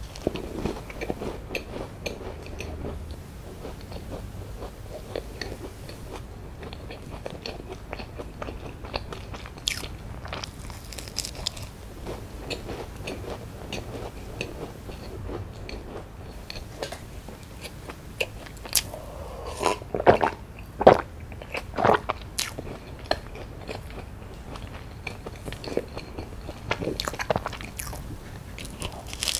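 Close-miked eating of a strawberry-jam pie biscuit: crisp bites and small crackling crunches of the pastry as it is chewed. A few louder crunches come about twenty seconds in.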